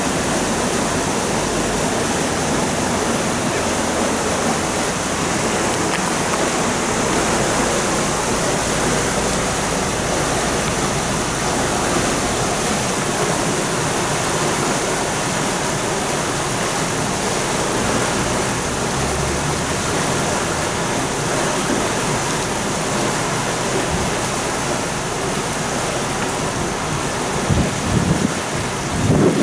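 Canal lock draining: water gushing through the opened sluice gates and churning in the canal below the lock, a steady loud rush of turbulent water. A few low thumps come near the end.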